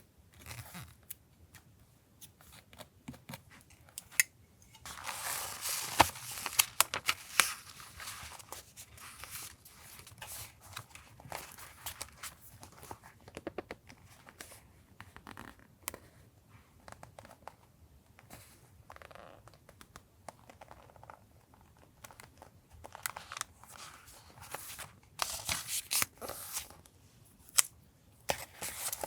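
Paper crafting at a desk: scissors cutting paper and paper or tape being torn and crinkled, in irregular rasping bursts with small sharp clicks. The busiest stretches come about five seconds in and again near the end.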